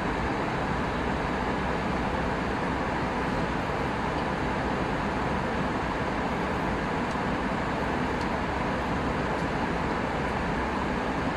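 Steady cabin noise of an Airbus A319 in flight: the even, unchanging rush of jet engines and airflow heard from inside the cabin.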